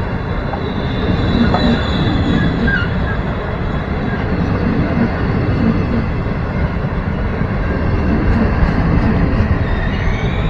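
Passenger train's carriages rolling past close by at speed: a steady, loud rumble of steel wheels on the rails, with a faint high wheel squeal above it.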